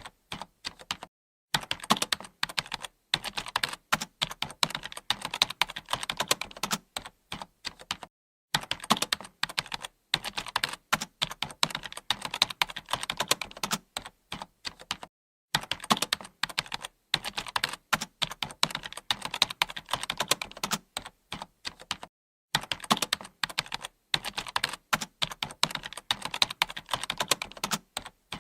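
Computer keyboard being typed on: rapid, continuous key clicks in runs of about seven seconds, each broken off by a brief pause.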